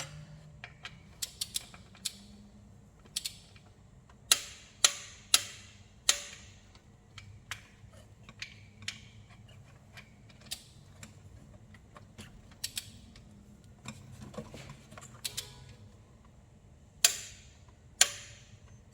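Wrench and ratchet clicks on engine bolts being tightened to 25 newton metres: scattered sharp metallic clicks and taps, with a cluster of louder clicks a few seconds in and two more near the end.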